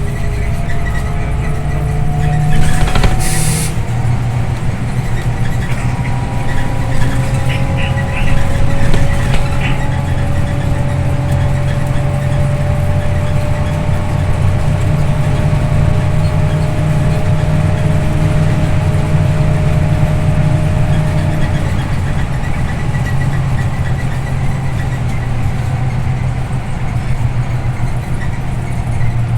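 Scania OmniLink city bus under way, heard from inside the cabin: a steady diesel engine drone with road noise, its pitch slowly rising and falling. About three seconds in there is a short hiss of released air.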